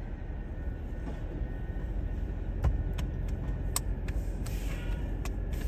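Autocar ACX McNeilus garbage truck running with a steady low rumble. From about two and a half seconds in come a run of sharp cracks and snaps as bulky waste breaks up under the packer, with a brief hiss near the end.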